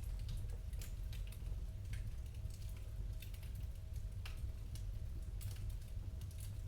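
Wood fire crackling in a fireplace: irregular sharp pops and snaps over a low steady rumble, with a faint steady hum underneath.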